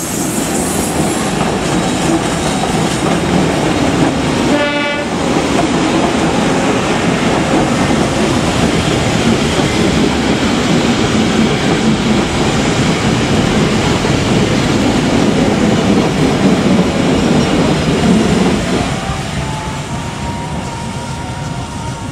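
Passenger train hauled by a CC201 diesel-electric locomotive rolling past close by, its coaches' wheels running steadily on the rails. A brief high tone comes about five seconds in. The noise fades from about three-quarters of the way through as the last coaches pull away.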